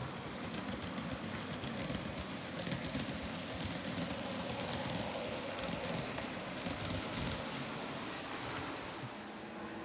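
N scale Athearn F59 locomotive and Bombardier coaches running on model track: a steady whir with many small clicks from the wheels over the rails.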